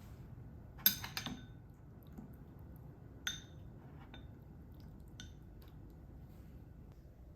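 Light clinks and taps of kitchenware, such as dishes, glass or cutlery, against a faint room hum. There is a quick cluster of several clinks about a second in, then a few single taps spaced out after.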